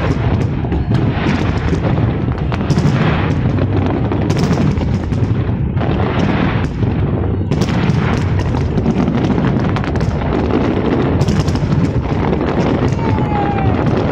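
Large fireworks display: shells bursting in rapid, overlapping bangs over a constant low rumble.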